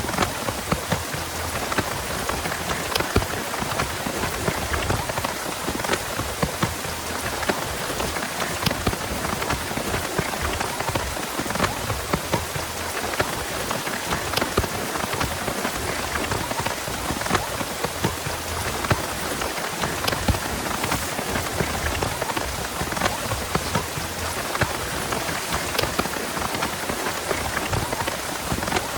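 Heavy rain falling steadily, with many separate drops clicking sharply close by.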